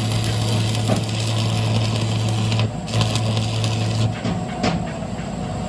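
A machine's steady low hum. It cuts out briefly about two and a half seconds in and stops again about four seconds in, with a few sharp clicks.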